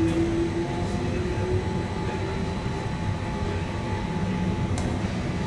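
Electric S-Bahn train running along the line, heard from inside the carriage: a steady rolling rumble with a faint motor whine that fades out in the first second or two, and one faint click near the end.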